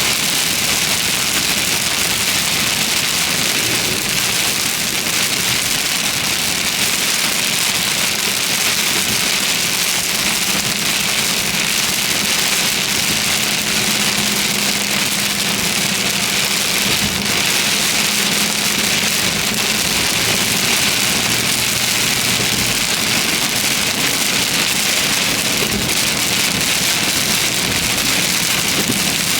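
Heavy rain on a moving car: a steady, loud hiss of rain, with a faint hum of the car underneath.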